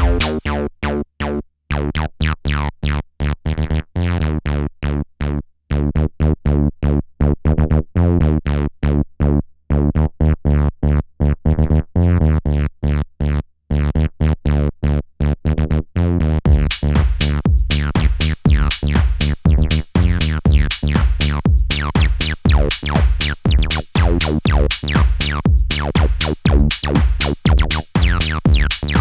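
Behringer TD-3 (TB-303-style) acid bassline playing rapid sequenced notes through its resonant filter, over a drum-machine loop. The top end thins out for a few seconds about a third of the way in, then opens up brighter and fuller from about halfway.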